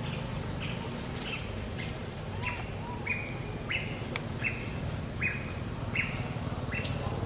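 A bird calling over and over: a short, high note repeated a little under twice a second, over a steady low background hum.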